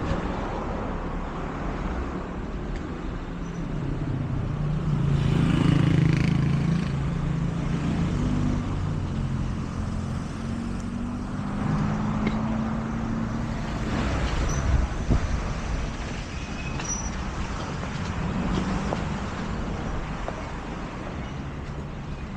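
Road traffic: motor vehicles passing, with one engine running close by from about four seconds in to about fourteen seconds in.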